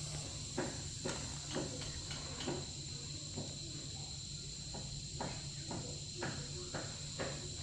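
Steady high insect chirring, crickets or cicadas, with about a dozen irregular light knocks and clicks over it.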